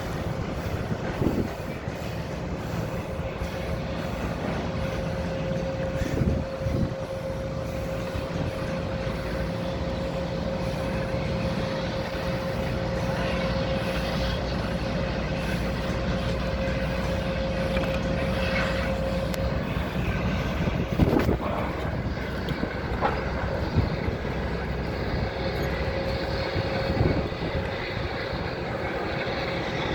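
Heavy construction machinery running steadily with a constant whine, and a few sharp knocks or clanks, the loudest about two-thirds of the way through.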